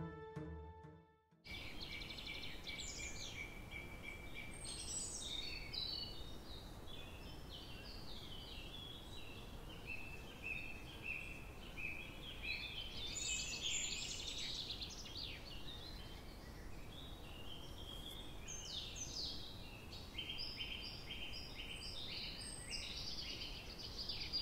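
Birds singing outdoors: a dense, continuous run of short, high chirps and trills over a faint steady background. It starts about a second and a half in, after a brief silence.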